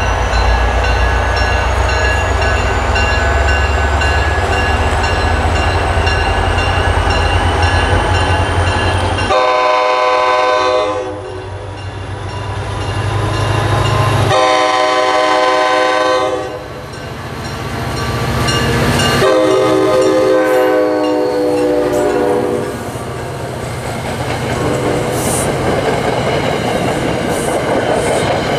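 Approaching NJ Transit diesel-electric passenger locomotive, its engine rumbling, then its air horn sounding three long blasts starting about a third of the way in. Near the end the train is passing, with the steady rumble of the passenger coaches on the rails.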